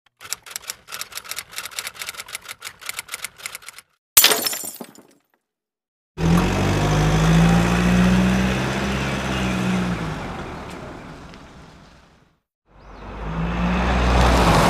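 A run of separate sound effects: about four seconds of rapid clicking, then one sharp crash that dies away within a second, then two long, loud low drones with a steady pitch. The first drone fades out over several seconds; the second starts a little before the end.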